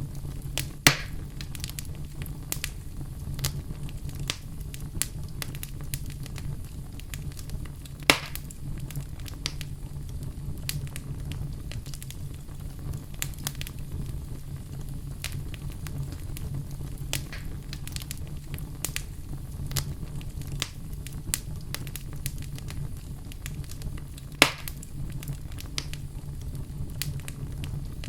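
Wood fire burning in a fireplace, crackling steadily over a low rumble of flame, with three louder pops: about a second in, near the middle of the first third, and near the end.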